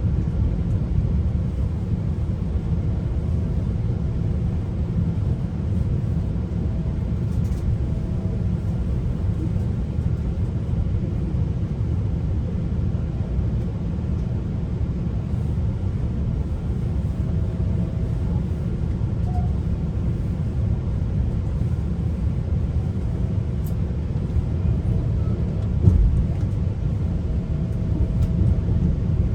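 A GO Transit passenger train running along the track, heard from inside a coach: a steady low rumble of wheels and car body, with a single thump near the end.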